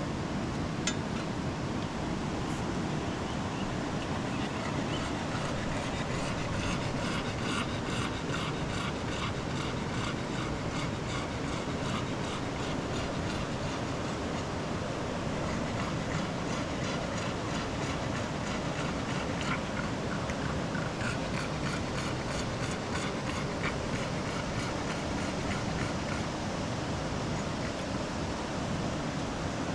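Steady rushing of a river. A rhythmic, high pulsing sound comes in twice over it and fades again.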